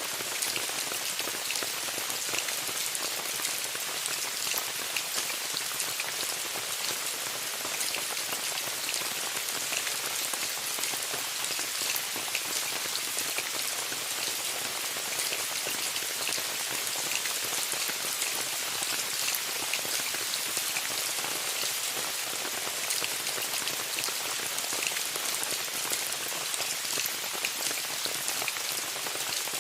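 Steady rain falling on a tent. It is a constant hiss peppered with many small, sharp drop ticks.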